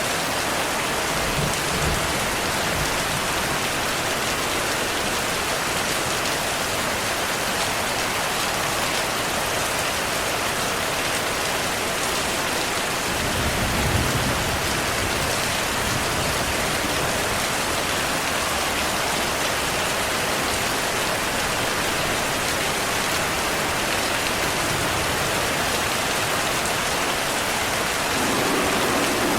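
Steady heavy rain, with low rumbles of thunder: a faint one near the start and a stronger one about halfway through.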